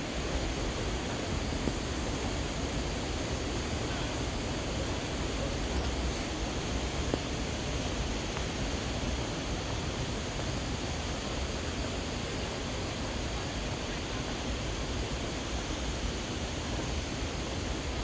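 River rushing below a forest trail: a steady, unbroken rush of water.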